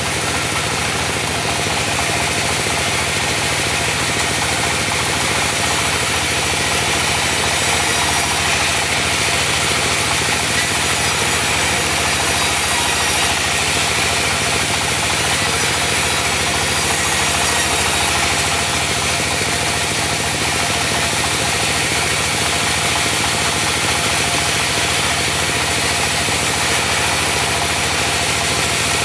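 Diesel engine of a portable band sawmill running steadily, with the band saw driven off it.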